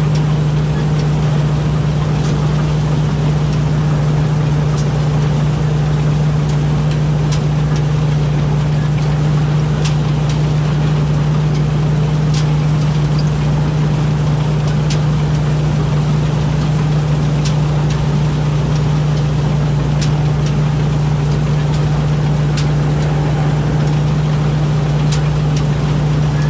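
Rice combine harvester's diesel engine running at a steady speed while harvesting, a constant deep hum with faint scattered ticks.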